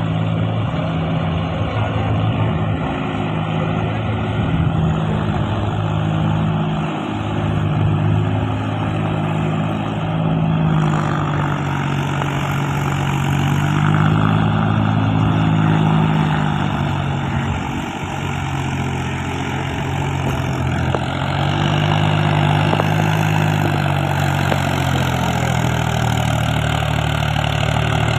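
Mahindra 265 tractor's three-cylinder diesel engine running steadily, its pitch rising and falling slightly every few seconds.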